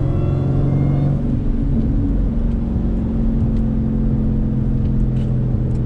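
Supercharged 6.2-litre V8 of a 1000 hp Jeep Grand Cherokee Trackhawk running while driving. Its note climbs slightly for about the first second, then settles into a steady lower drone.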